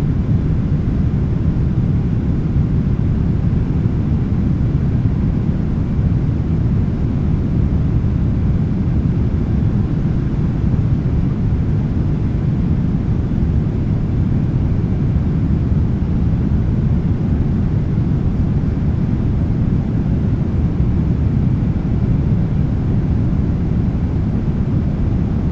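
Steady cabin noise of a Boeing 777-300ER, a low, even rumble of its GE90 engines and rushing air heard from inside the cabin, with no change in pitch or level.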